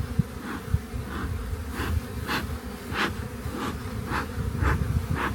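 Honey bees buzzing in a steady hum around an open hive, with a soft hiss pulsing about every half second and a few low bumps.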